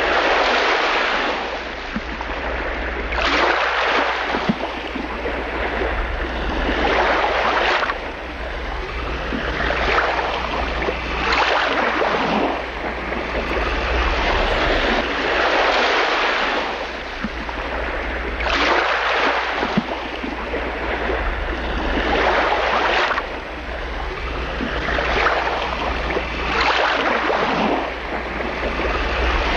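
Waves breaking and washing in, a rush of noise that swells and fades every few seconds, with a steady low rumble of wind on the microphone underneath.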